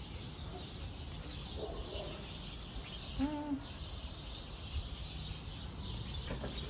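Faint outdoor ambience with a single short, low bird call that rises and falls about three seconds in.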